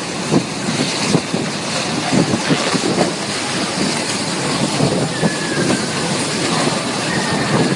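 Heavy rain and strong wind: a loud, steady rush of noise with many irregular knocks and thuds.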